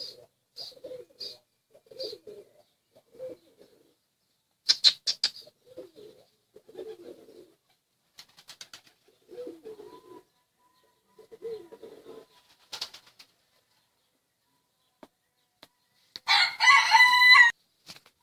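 Pigeons cooing, low and soft calls repeated every second or so, with a few sharp clatters between them. Near the end a rooster crows once, loud and brief, over the pigeons.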